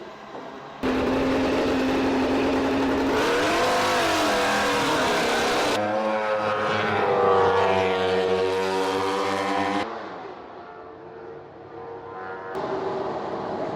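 MotoGP racing motorcycle engine, loud and rising and falling in pitch as it revs, in edited segments that cut off abruptly, then a quieter steadier engine near the end.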